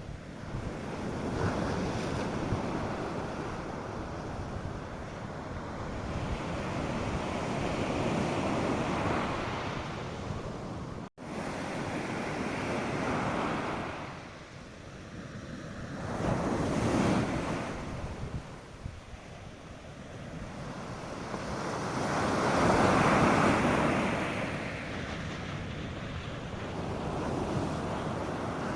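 North Sea surf breaking on a sandy beach, the rush of the waves swelling and falling every few seconds, with light wind on the microphone. A brief dropout cuts the sound about eleven seconds in.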